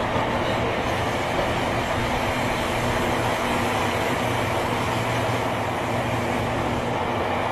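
Tobu 9000 series chopper-control electric train running at steady speed between stations, heard from inside the motor car: steady wheel-and-rail rumble with constant traction-motor hums. This unit's motor sound is an unusual one, unlike the usual chopper-car sound and closer to a Tokyo Metro 8000 series.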